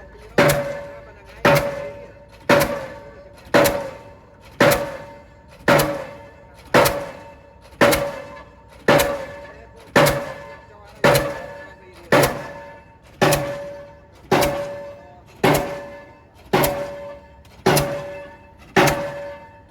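Delmag D46-32 diesel pile hammer driving a precast concrete pile: loud, regular blows about once a second, each a sharp bang followed by a short metallic ringing at a few steady pitches.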